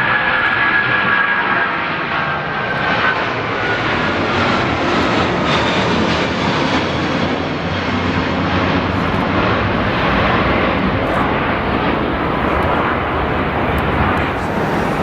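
Jet airliner's engines running loud as it passes, a steady roar with a high whine that falls slowly in pitch over the first few seconds.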